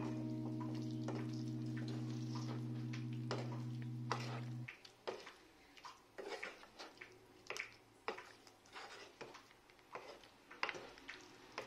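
Background music with held notes that stops about halfway through, then a wooden spatula stirring chicken curry in a nonstick frying pan: irregular soft scrapes, squelches and knocks against the pan.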